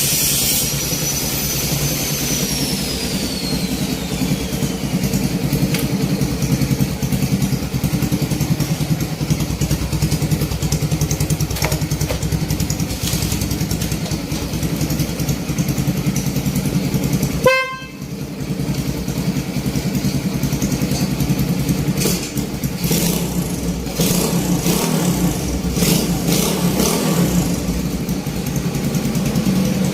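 Small engine of a miniature Willys jeep running steadily, with a brief break about two-thirds of the way through.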